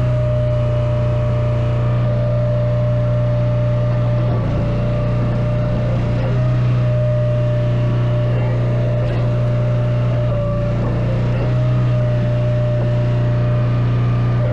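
An engine running steadily at a constant speed, holding one low, even pitch, with a few faint knocks over it.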